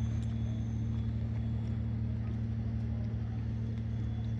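Steady low machinery hum at a constant pitch, like an engine or generator running without change.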